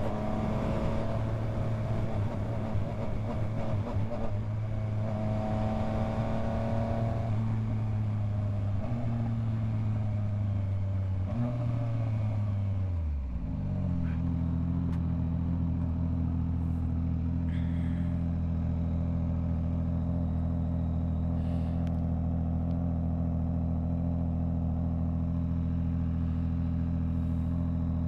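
Yamaha MT-09 three-cylinder motorcycle engine running steadily under way with wind rush on the microphone. About halfway through, the engine speed drops as the bike slows, and it settles into a steady idle for the rest.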